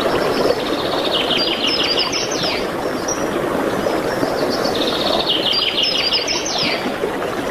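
A songbird sings two phrases about four seconds apart, each a fast trill of repeated high notes ending in a few quick downward-sweeping notes. A steady rushing noise runs underneath.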